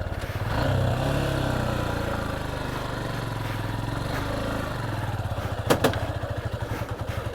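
Motorcycle engine running at low revs on a rough track, picking up briefly about a second in, with a sharp clack a little before six seconds in.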